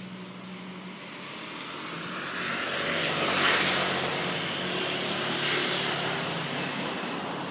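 A motor vehicle passing by: a steady engine note under tyre and road noise that swells to a peak about three and a half seconds in, with a second smaller swell about two seconds later.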